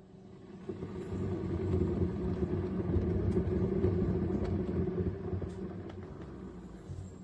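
Keurig K-Duo Plus coffee maker brewing: a low rumbling, gurgling run of its pump and water that swells about a second in and fades away near the end.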